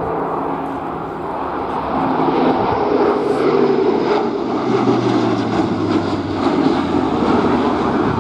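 Airbus A400M Atlas's four TP400 turboprop engines and eight-bladed propellers droning in flight, getting louder about two seconds in. The propeller tones drop in pitch around the middle.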